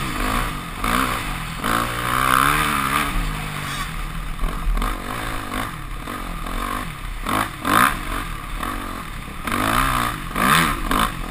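Yamaha YZ250F single-cylinder four-stroke motocross engine, heard from the rider's helmet, revving up and dropping off again and again as the bike is ridden round the track, with a few sharp knocks in the second half.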